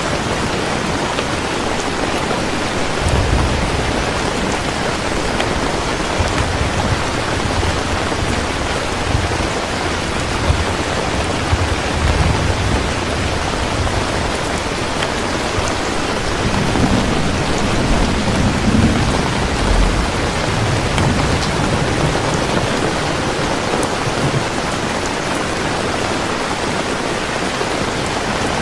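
Heavy rain falling steadily, with low rolling thunder rumbling up several times.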